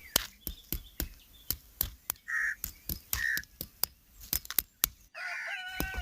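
Two short bird calls among many sharp clicks and taps. About five seconds in, a steady sound of several held tones begins.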